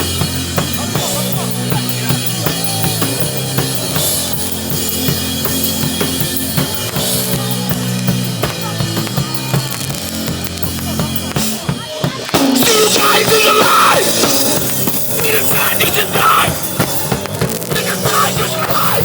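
Live hardcore punk band playing loud, with distorted guitar, bass and drums, heard from inside the mosh pit. About twelve seconds in the music suddenly gets louder and fuller.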